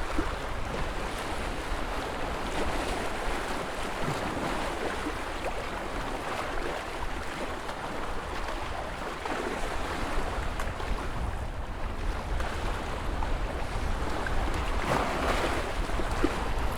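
Ocean surf: waves washing and breaking continuously, with a low rumble underneath and a swelling surge near the end.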